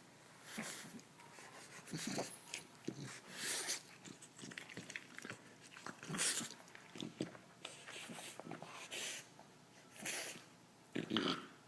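A dog snoring: rasping, noisy breaths that come irregularly every one to three seconds, some much louder than others.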